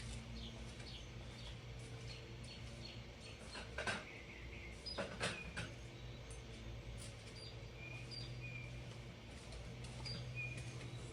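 Faint, scattered bird chirps over a steady low hum, with a couple of soft knocks near the middle.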